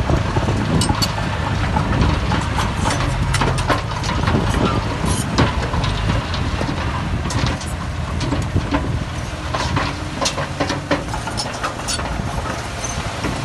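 Heavy diesel earthmoving machinery running steadily with a deep rumble, with frequent sharp clanks and knocks scattered throughout.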